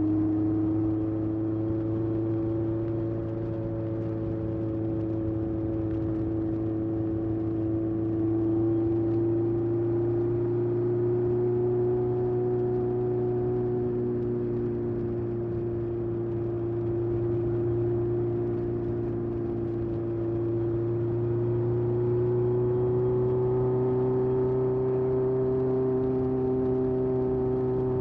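1981 Honda CB750F's air-cooled inline-four running through a period Yoshimura exhaust at a steady cruise, its pitch drifting gently up and down.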